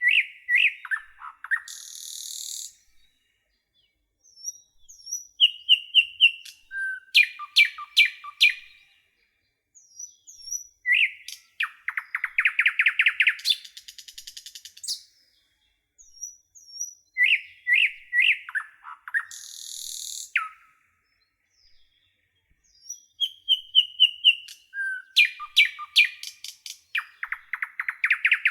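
A nightingale singing in separate phrases of a few seconds, about five of them, with short silent pauses between. Each phrase mixes clear whistled notes, fast runs of repeated notes and a rapid rattle.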